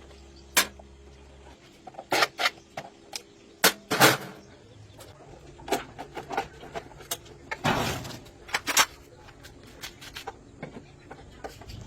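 Irregular sharp clanks and knocks, metal on metal, about a dozen, loudest about four seconds in. A low hum stops about a second and a half in.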